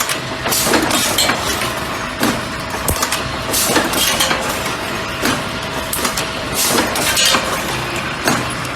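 Automatic bucket-handle making machine running as it forms wire handles and inserts plastic grips: a steady mechanical hum with frequent, irregular sharp clicks and knocks.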